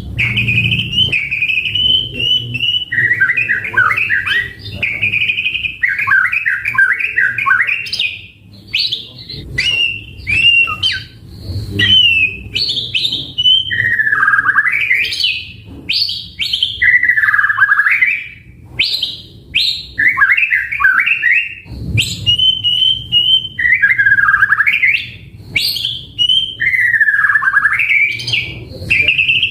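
White-rumped shama (murai batu) singing continuously, a run of quick, varied phrases: clear whistles, chattering trills and notes that sweep down and back up, with only short pauses between them.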